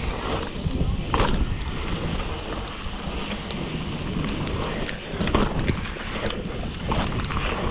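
Mountain bike descending a wet, muddy trail: wind on the microphone over a steady rumble of tyres and trail, with scattered sharp clicks and knocks as the bike rattles over rough ground. The loudest knocks come about a second in and again about five and a half seconds in.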